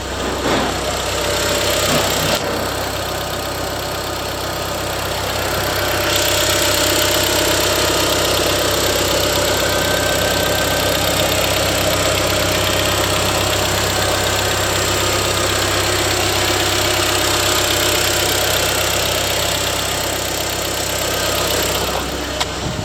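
Audi TT (8N) 1.8-litre turbocharged four-cylinder AUQ engine running at idle. It grows louder and brighter from about six seconds in and eases back down near the end.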